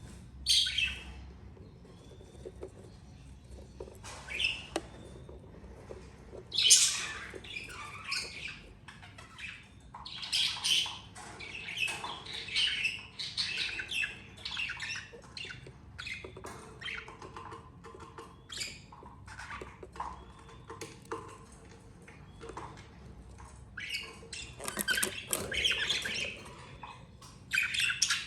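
Budgerigars squawking and chirping in many short, harsh calls that come in irregular clusters, loudest about a quarter of the way in.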